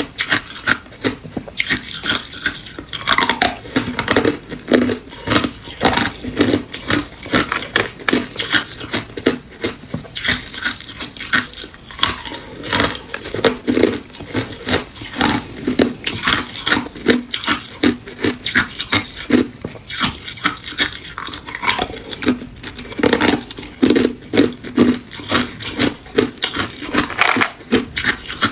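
Hard ice cubes being bitten and chewed close to the microphone: loud, continuous crunching with many sharp cracks a second.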